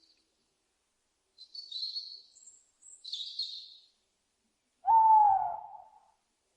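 Owl calls: two short, raspy, high-pitched screeches, then about five seconds in one loud hoot that slides slightly down in pitch.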